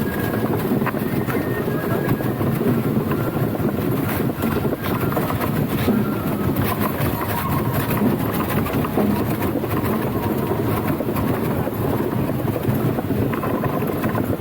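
Steady rumbling of a danjiri festival float's wheels rolling along the road, with scattered faint clicks and knocks.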